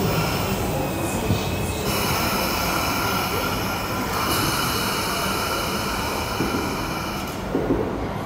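Double-deck electric suburban train running along the platform, its wheels squealing: a steady high-pitched ring starts about two seconds in and fades near the end, over the steady rumble of the wheels and running gear.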